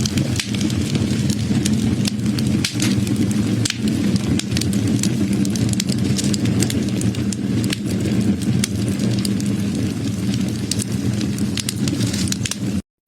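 Wood fire burning, with frequent sharp crackles and pops over a steady low rumble. Near the end the sound cuts out completely for a fraction of a second, then resumes.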